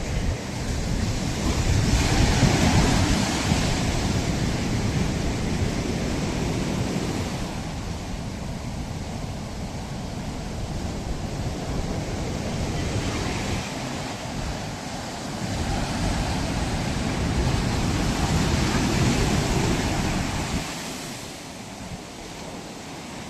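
Ocean waves breaking and washing up a sandy beach, the surf swelling twice and falling back, with wind rumbling on the microphone.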